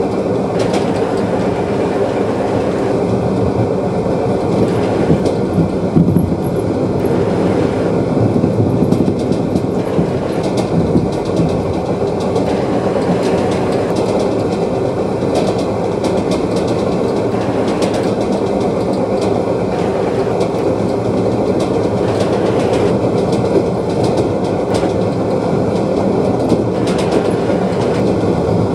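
Passenger train running along the line, heard from inside the carriage: a steady rumble of wheels on the rails, with occasional sharp clicks.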